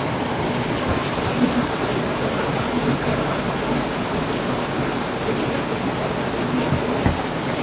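Heavy rain falling steadily, with now and then a single louder drop or drip striking a surface, most clearly about seven seconds in.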